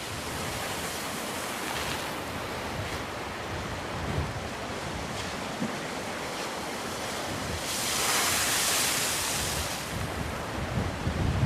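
Black Sea waves breaking and washing on the shore, with wind rumbling on the microphone. One wave rushes in louder about eight seconds in.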